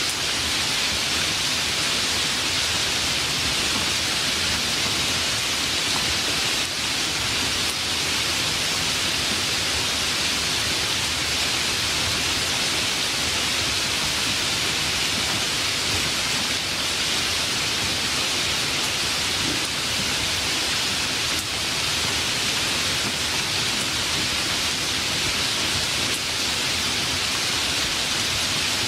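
Steady, heavy rain falling, an even hiss of countless drops that neither builds nor breaks off.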